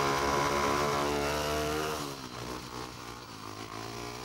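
Speedway motorcycle's single-cylinder engine running hard on the track. About two seconds in, its note drops and the sound fades as the bike moves away.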